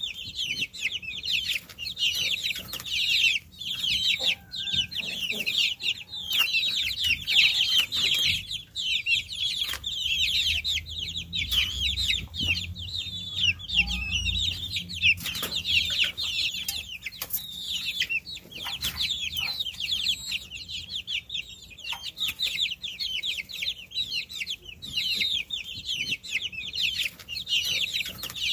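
A flock of baby chicks peeping continuously: a dense, overlapping chorus of short, high chirps with no pause.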